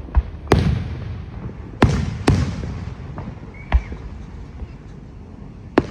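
Fireworks going off: about six sharp bangs at irregular intervals. The loudest come about half a second and two seconds in, each followed by a rumbling echo that fades over a second or so.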